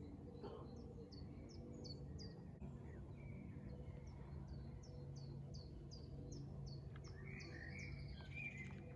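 Small birds chirping faintly: runs of short, high calls, each falling in pitch, a few a second, with softer calls among them.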